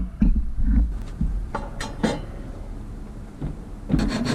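A few light knocks and clinks of tools and parts being handled. About four seconds in, a saw starts cutting with fast, even strokes.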